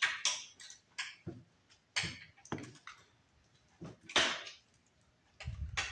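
Small parts and wiring being handled by hand: scattered clicks, knocks and rustles, with one louder scrape about four seconds in and a low rumble near the end.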